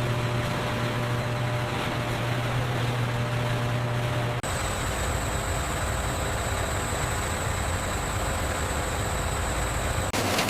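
Steady hum and hiss of factory processing machinery, with a strong low hum that gives way abruptly about four seconds in to a noisier running sound with a thin high whine, then changes abruptly again near the end.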